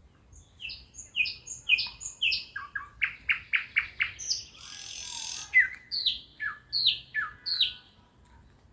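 Nightingale singing a full song phrase. A series of loud whistled notes slides steeply down in pitch, then a fast run of sharp clicking notes follows, then a harsh rasping note about a second long, then more down-slurred whistles before the song stops near the end.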